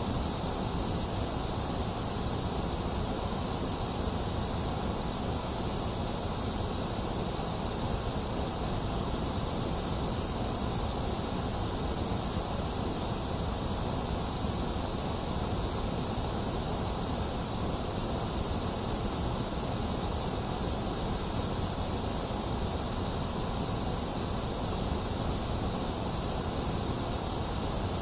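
Box fan running steadily, mixed with steady rain: an even, unchanging hiss over a low rumble, with no thunder.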